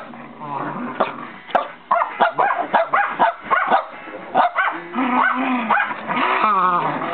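Puppies yipping and barking in quick, high-pitched bursts, several a second at their busiest, as they play-fight.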